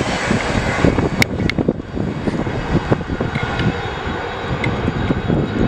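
Intermodal container freight train wagons rumbling past and away along the track, with a couple of sharp clicks a little over a second in.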